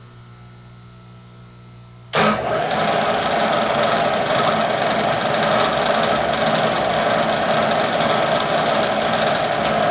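A shop machine's electric motor switches on abruptly about two seconds in and runs steadily and loudly, then starts to wind down, its pitch falling, at the very end.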